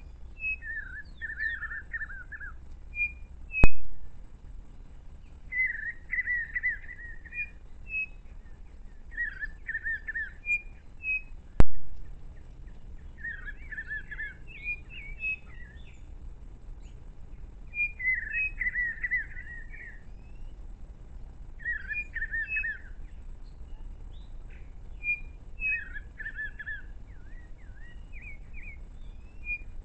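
A songbird singing a short whistled, warbling phrase over and over, about once every four seconds. There are two sharp clicks, one a few seconds in and another just before the middle.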